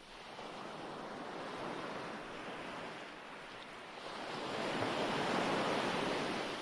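Ocean waves washing onto a shore, a recorded surf track. A smaller wave swells about two seconds in, and a larger one builds to its peak around five to six seconds in before receding.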